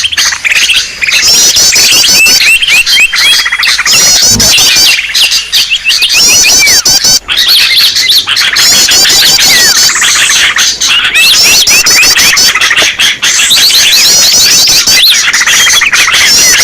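A loud, dense chorus of many small songbirds chirping, trilling and calling over one another without pause: a bird-lure recording of agitated small birds, made to draw other small birds in.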